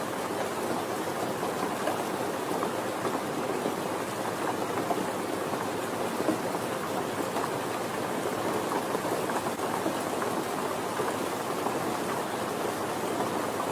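Steady soft rain falling, a continuous patter with many small drops ticking on a surface.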